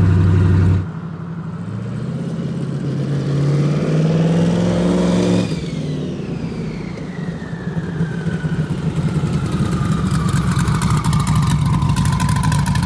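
Twin-turbocharged 427 V8 of a drag El Camino accelerating, heard from outside. The engine revs up together with a rising turbo whine, then lets off abruptly about five seconds in. A falling whine follows as the turbos spool down, the engine still running underneath, and a fast, even rattling crackle sets in near the end.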